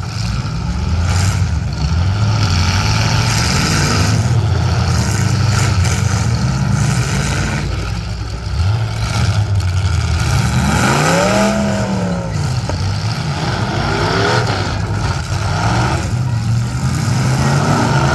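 Demolition derby cars' engines running hard and revving, several at once. One engine climbs and falls in pitch about two-thirds of the way through.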